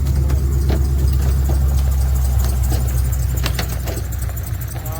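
2014 Shelby GT350's V8 engine running at low, steady revs, easing slightly quieter toward the end.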